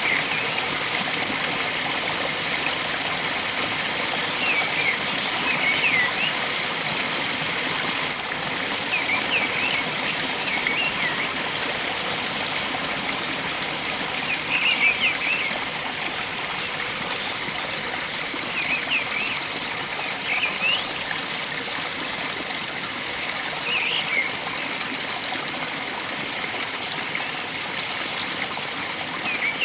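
Water flowing steadily in a stream, with a bird giving short chirping calls every few seconds.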